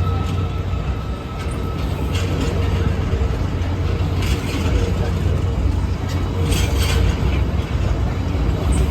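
Freight train hauled by a Class 99 locomotive passing over the crossing: a steady low drone from the locomotive running on its diesel engine, with several short bursts of wheel clatter over the rails.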